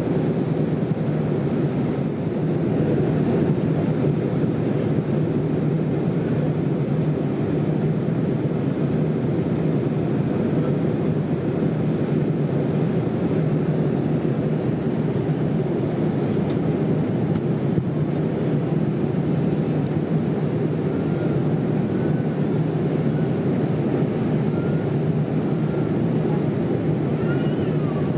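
Steady rushing cabin noise inside a Boeing 787-8 airliner in flight: airflow and engine noise heard from a window seat, holding an even level throughout.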